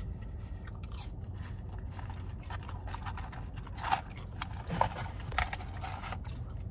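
Chewing fries, then the crinkle and rustle of a paper fry container and a sauce packet being handled, with a few sharper clicks about four and five seconds in, over a steady low hum.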